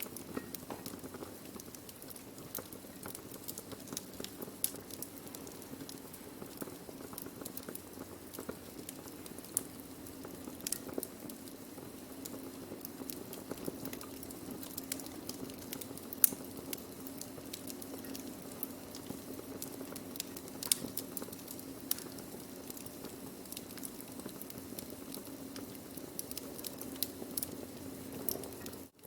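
Wood fire burning, crackling with many sharp, irregular pops and snaps over a soft steady rush of flame. The sound drops out for a split second near the end.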